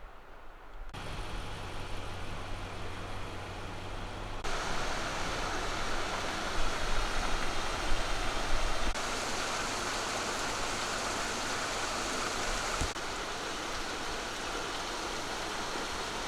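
Rushing water of a mountain stream, a steady hiss that changes level abruptly several times as clips cut one to the next.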